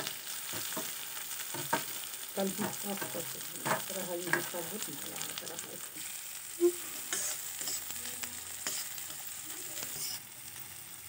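Chopped onions sizzling in hot oil in a metal kadhai, with a metal spatula scraping and clinking against the pan as they are pushed in and stirred. The sizzle is a steady hiss under frequent short scrapes, which thin out after about five seconds.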